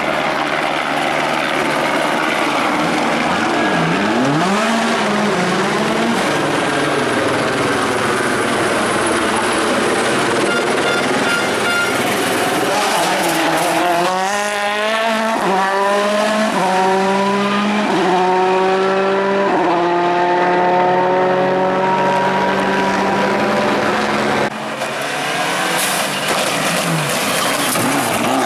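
Rally car engine at full throttle on a stage: after some revving early on, it accelerates hard about halfway through, the pitch climbing and falling back at each of several quick upshifts, then holding a steady high note before the sound drops away suddenly near the end.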